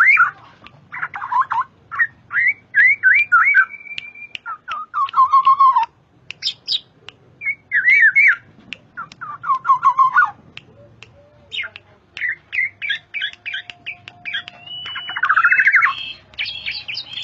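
Black-naped oriole (kepodang) calling: a long, varied run of short chirps, slurred whistles and harsh chattering notes, with brief pauses between phrases.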